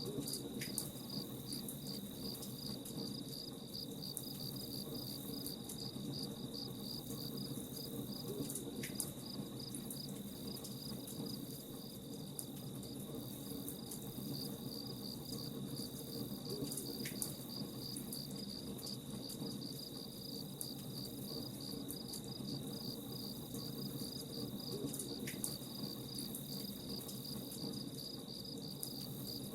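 Crickets chirping in a steady, rapid pulsing trill, over the faint crackle of a campfire with a low steady rumble underneath.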